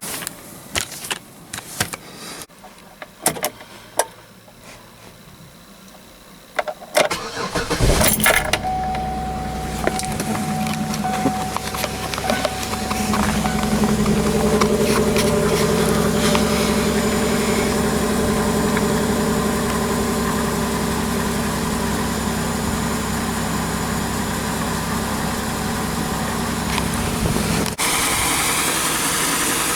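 Several clicks and knocks, then a 2006 Pontiac Torrent's 3.4-litre V6 cranks and catches about eight seconds in. It is a cold start at −12 °C. After firing, a thin high whine sounds for a few seconds while the engine settles into a steady idle that picks up slightly.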